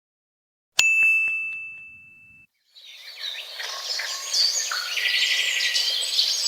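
A single bright bell ding that rings out and fades over about a second and a half, followed after a short gap by many birds chirping together.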